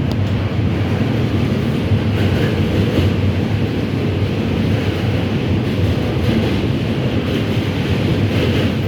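R68 subway train running along the track: a steady, loud rumble of wheels on rail with no breaks or distinct events.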